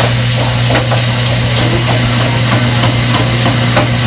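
Front-load washing machine running: a steady motor hum with light knocks and clicks repeating about three times a second as the drum turns.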